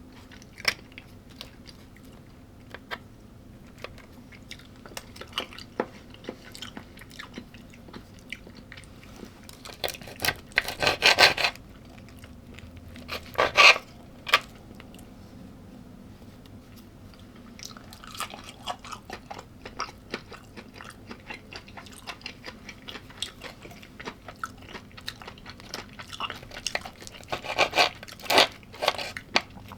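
A person chewing food close to the microphone: soft wet mouth clicks throughout, with louder crunching bites twice around the middle and again near the end.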